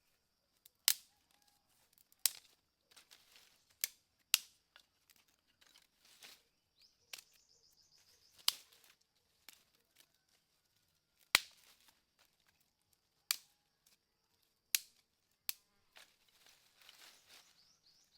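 About nine sharp cracks or knocks at irregular intervals, each short and sudden, over a faint high buzz.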